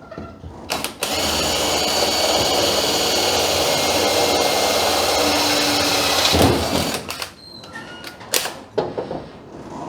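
A power tool runs steadily for about six seconds, then stops. Scattered knocks and clicks come before and after it.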